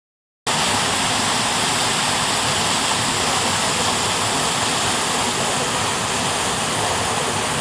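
Minoo Falls, a 33-metre waterfall, pouring with a steady, even rush of water that cuts in suddenly about half a second in.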